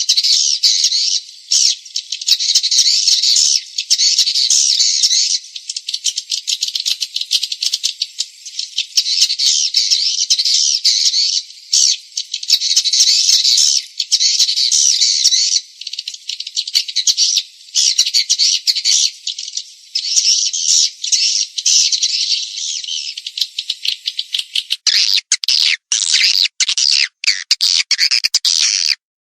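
Swiftlet lure call: dense, high-pitched twittering chirps in rapid trains with short pauses. About 25 s in it turns choppier and reaches lower, with brief dropouts.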